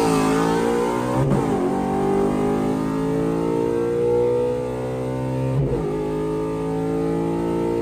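V8 car engine accelerating hard at wide-open throttle, its pitch climbing steadily in each gear. It is interrupted twice by quick gear changes, about a second in and near six seconds, each dropping the revs before it pulls up again.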